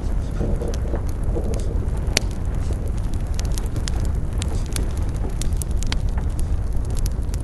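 Campfire burning: a steady low rumble of flames with irregular sharp crackles and pops, one louder pop about two seconds in.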